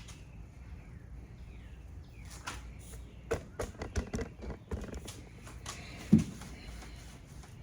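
Irregular knocks and clicks of hand work in a truck's engine bay, with one louder thump about six seconds in, over a low steady hum.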